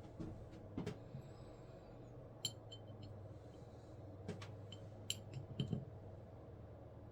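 Scattered light clicks and clinks of small hard parts and tools being handled on a workbench, over a steady low hum.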